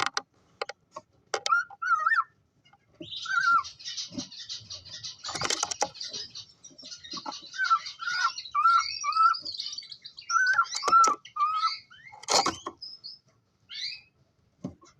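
Cockatiels chirping: repeated short, warbling calls, with a dense high twittering from about three to ten seconds in and a couple of louder sharp calls.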